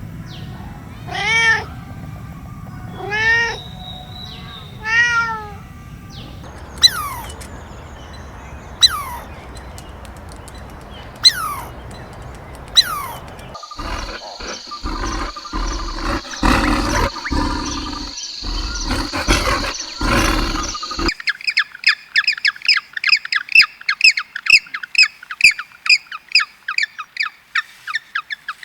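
A cat meowing three times in the first few seconds, followed by a series of other animal sounds, ending in rapid, high repeated chirping of about four calls a second.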